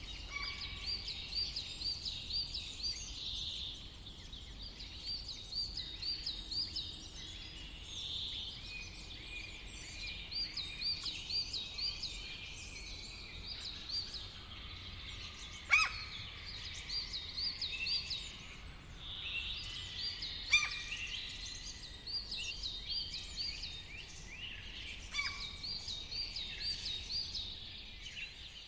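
Several songbirds singing: one repeats phrases of quick, looping high notes, each phrase a second or two long, and two sharp, loud calls stand out about sixteen and twenty seconds in.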